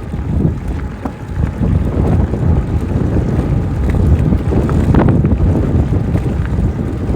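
Wind buffeting the microphone of a moving e-bike rider, a loud, uneven low rumble that rises and falls.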